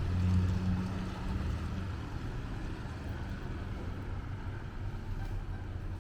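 Low, steady engine hum of a passing vehicle on a street, strong at first and fading after about two seconds, over a constant background of traffic noise.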